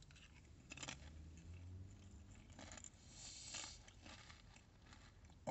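Faint crunching of a kettle-cooked potato chip being bitten and chewed, a few scattered crunches.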